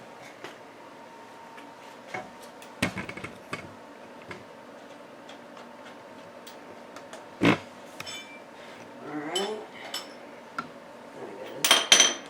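Metal parts and hand tools clinking and knocking as a dirt bike's front wheel and axle are fitted, with one loud knock about halfway through and a ringing metal clatter near the end.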